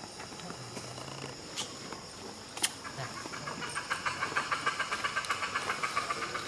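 Outdoor insect chorus: a steady high buzz, joined about halfway by a louder, rapid pulsing chirr of about six pulses a second. A single sharp click comes a little before the chirr starts.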